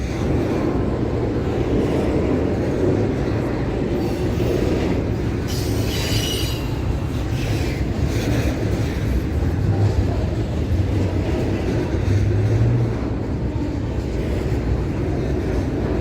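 Train rolling along the track with a steady low rumble, and a brief high-pitched wheel squeal about six seconds in.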